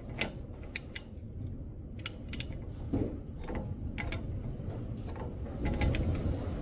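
Hand tools clicking and ticking against the metal rear hub as the adjusting nut is backed off a little: about ten irregular sharp metallic clicks, some in quick pairs, over a low steady rumble.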